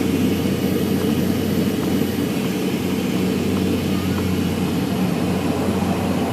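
Saab 340's twin turboprop engines and propellers droning steadily, with a strong low hum.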